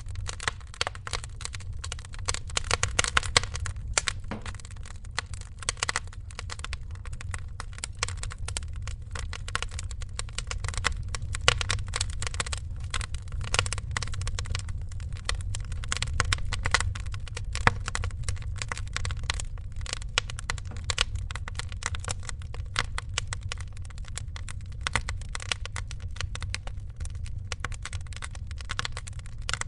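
Fireplace fire crackling, with many irregular pops and snaps over a steady low rumble.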